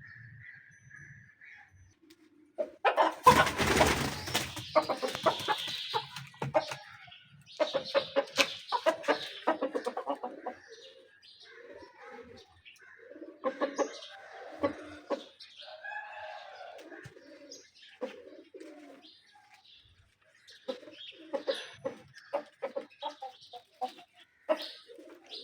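Roosters clucking and calling in short bursts, with a loud flurry of flapping wings and scuffling about three seconds in.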